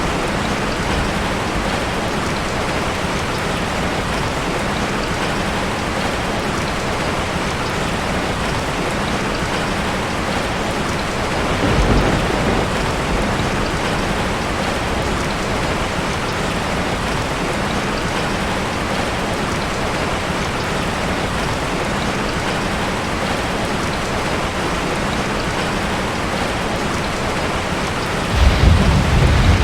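Heavy rain falling steadily on a tin roof, with a low roll of thunder about 12 seconds in and a louder rumble of thunder building near the end.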